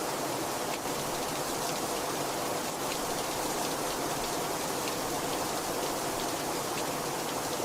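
Heavy rain falling steadily, a dense hiss of rainfall with many individual drops spattering on surfaces.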